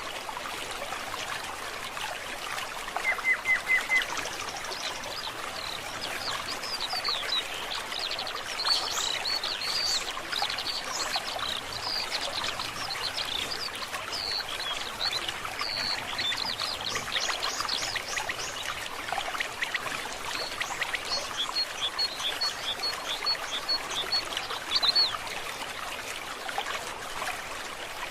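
Forest stream trickling steadily, with several songbirds chirping and calling over it. The loudest is a quick run of four notes about three seconds in, and a run of evenly spaced short high notes comes near the end.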